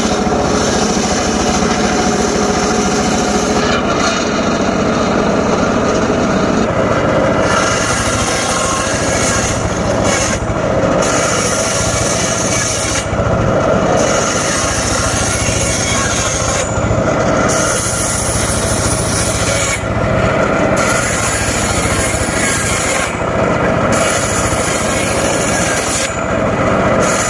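Homemade circular saw running and cutting short pieces of teak wood. The high hiss of the cut drops out briefly every few seconds.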